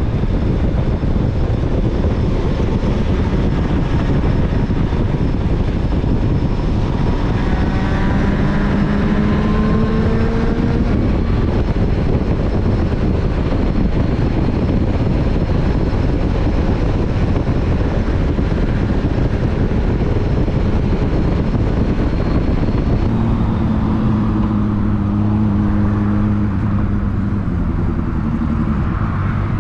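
Motorcycle riding on the road, with a heavy rush of wind noise over the microphone and the engine's note underneath. The engine note rises from about eight to eleven seconds in, as the bike speeds up. It comes back stronger about three-quarters through, holds, and falls away near the end.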